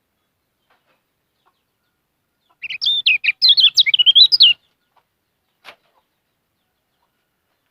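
A kecial kuning, a small white-eye songbird, sings one rapid, warbling phrase of about two seconds, starting a few seconds in. A faint click follows shortly after.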